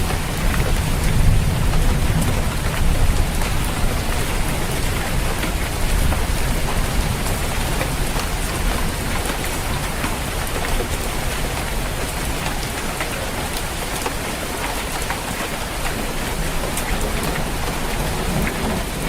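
Heavy rain falling on a roof: a steady hiss with scattered drop taps. A low thunder rumble dies away over the first few seconds.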